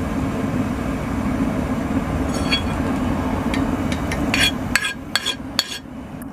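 Light metallic clinks and taps of steel on steel, several in a row with a short ring, over a steady low rumble that cuts out about four and a half seconds in.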